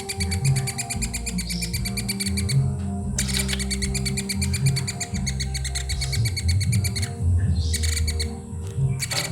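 Young woodpecker calling in a rapid chattering series of short ticks, in long bouts broken by a short pause about a third of the way in and a thinner stretch near the end, over low background music.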